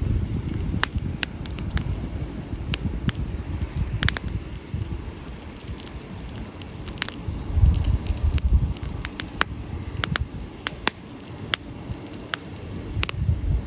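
Wood campfire crackling, with irregular sharp pops and snaps over a low rumble that swells briefly just past the middle.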